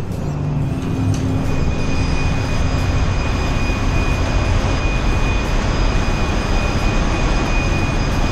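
Loud, steady machinery roar of a very large crude carrier's engine room under way at sea, with a high steady whine joining about a second in.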